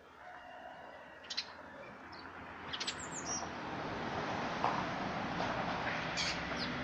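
Small birds chirping in short, high calls a few times. A steady rushing noise swells from about two seconds in and becomes the loudest sound.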